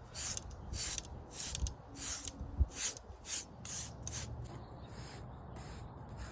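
Grooming brush swept over a horse's coat in regular strokes, about two a second, growing fainter after about four seconds.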